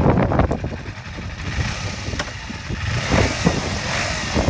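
Motorcycle engine running, growing louder from about a second and a half in.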